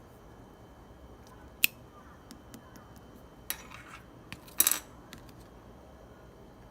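Slime being handled and pressed by hand: scattered sharp clicks and pops, with short crackly squelches, the loudest about four and a half seconds in.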